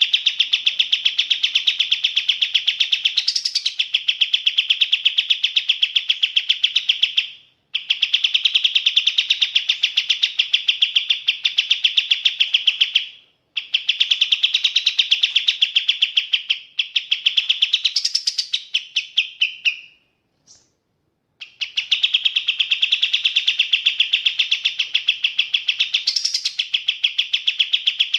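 Kapas tembak songbird singing long runs of rapid, evenly repeated chirps, in four stretches broken by short pauses, three of which carry a brief higher-pitched flourish.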